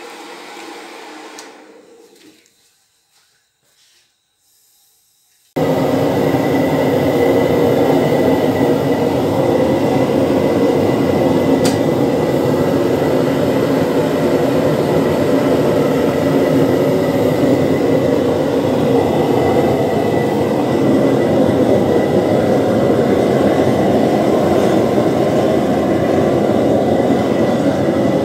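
Homemade gas-fired crucible furnace running, its burner fed by a hair dryer blowing air in with the gas: a loud, steady noise of flame and blown air with a faint high whine. A quieter sound fills the first two seconds and is followed by a short lull, then the full noise starts abruptly about five seconds in.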